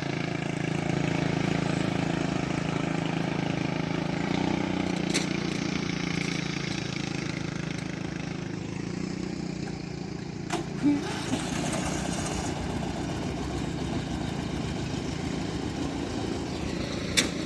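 Small engine running steadily, its pitch shifting slightly about four seconds in, with a few brief clicks.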